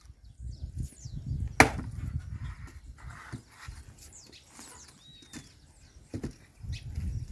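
Pieces of firewood being handled and set down on a bonfire pile, wood knocking on wood, with one sharp loud knock about one and a half seconds in and a few lighter knocks after.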